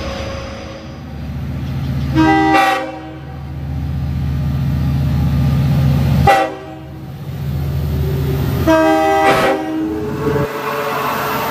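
Long Island Rail Road diesel locomotive sounding its multi-tone horn three times, the middle blast short, over the steady low rumble of its diesel engine. The engine rumble drops away about ten seconds in.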